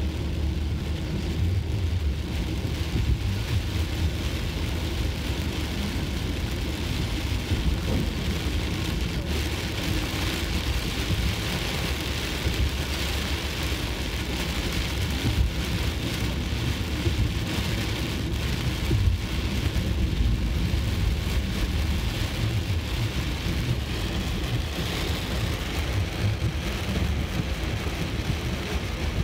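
Very heavy monsoon rain beating on a moving Maruti Ignis's roof and windscreen, heard from inside the cabin as a dense, steady hiss. Under it runs a steady low rumble of the car's engine and tyres on the wet road.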